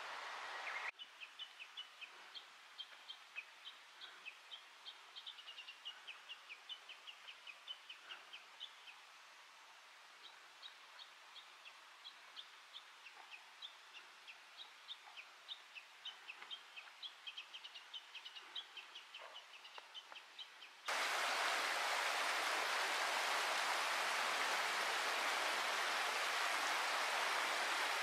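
A small songbird sings long runs of quick, high chirping notes. About 21 seconds in, this gives way suddenly to the louder steady rush of a mountain stream.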